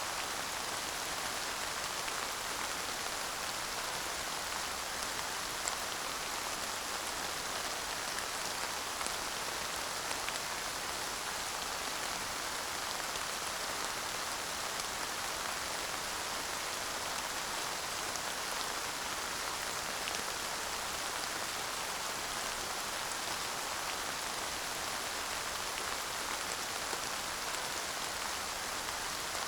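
Steady light rain falling, an even hiss of drops with the odd faint tick of a single drop, and no thunder.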